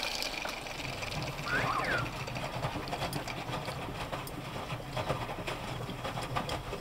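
Miele washing machine running: a steady motor hum as the drum turns, with a brief rising-then-falling motor whine about two seconds in.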